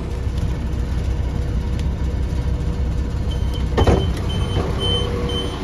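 Class 172 diesel multiple unit standing with its engine running, a steady low rumble. Just before four seconds in comes a sharp knock, and around it a run of short high beeps, about three a second: the door-closing warning.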